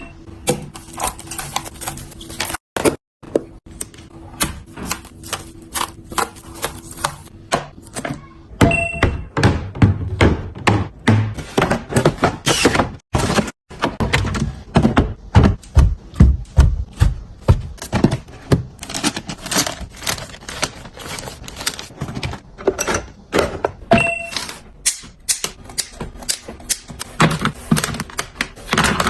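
Food containers and packaging being handled and set down while restocking a refrigerator: a fast, uneven run of clicks, taps and thunks, heavier in the middle. A short electronic beep sounds twice.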